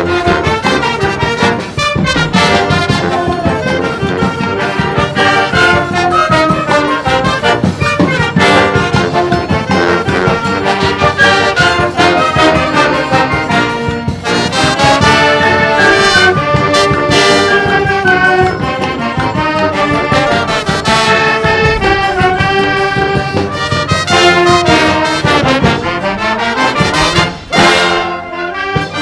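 A wind band playing a forró-style arrangement, with trombones and trumpets carrying the tune over a steady drum beat. The sound briefly drops away near the end before the band comes back in.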